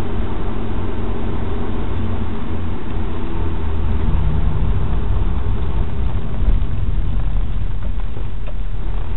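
Honda S2000's 2.0-litre four-cylinder engine running steadily, heard from inside the cabin along with road noise.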